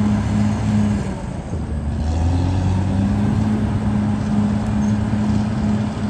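Caterpillar D6R XL bulldozer's diesel engine running steadily. Its note dips about a second in and then picks back up.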